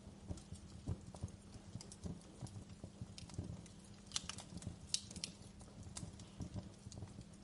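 Wood fire crackling: irregular sharp snaps and pops over a low rumble of burning logs, with one louder snap about five seconds in.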